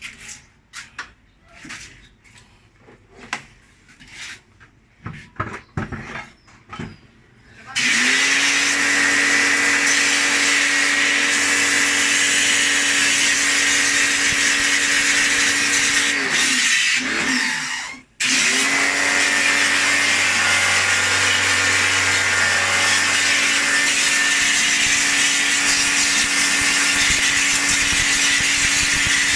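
Scattered clicks and knocks of parts being handled, then a loud electric-motor machine starts with a rising whine and runs steadily with a strong hiss. Past halfway it winds down, stops for a moment, starts again and runs on.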